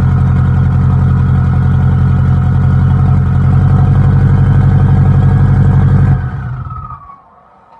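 Subaru STI's turbocharged flat-four engine running loud and steady just after a cold start, with the exhaust taken off. It grows a little louder about three seconds in, then stops about six seconds in.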